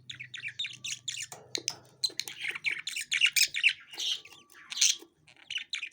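Budgerigars chirping and chattering, a quick string of short, sharp calls with some squawks mixed in.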